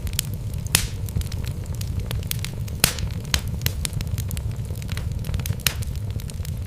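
Wood fire burning in a fireplace: a steady low rumble of the flames with irregular sharp crackles and pops from the logs, the loudest a little under a second in and just under three seconds in.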